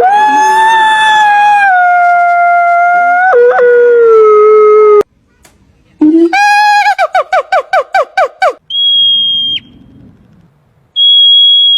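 An animal's calls: one long drawn-out call with many overtones that steps down in pitch twice over about five seconds. After a second's pause comes a quick run of about a dozen short yelping notes, then two short, high, steady whistle-like tones near the end.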